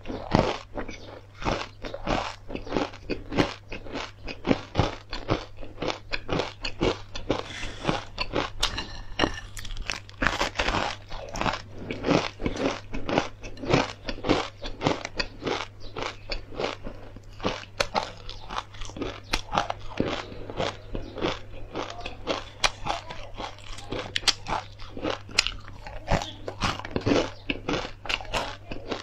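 A person crunching and chewing a mouthful of stir-fried perilla, flax and pumpkin seeds with chili crisp: dense, irregular crackling crunches, several a second, without a break.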